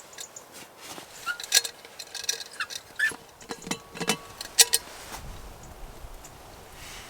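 Sharp clicks, clacks and a few short squeaks of gear being handled as a breakfast and coffee flask are unpacked inside a fabric pop-up hide. The clatter is busiest in the first five seconds and gives way to a soft low rustle.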